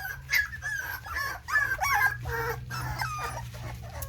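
Young American Bully puppies whimpering and squealing: a string of short, high squeaks that bend up and down in pitch, several pups calling over one another.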